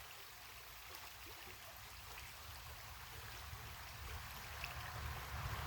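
Creek water running as a faint, steady rush. A low rumble builds up near the end.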